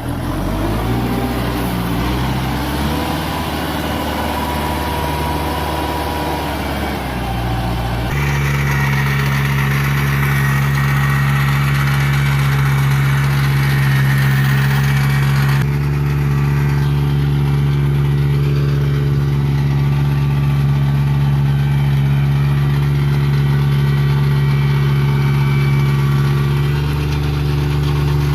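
Tractor engine rising in pitch as it speeds up over the first several seconds, then running at a steady speed. The sound shifts abruptly twice.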